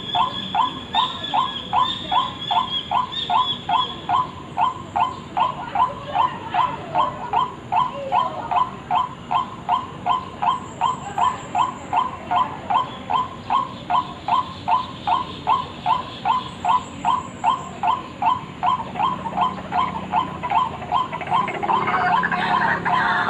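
White-breasted waterhen (ruak-ruak) calling, a long, even series of short 'kwak' notes at about two to three a second, played as a bird-lure call. Near the end a louder, denser sound joins in.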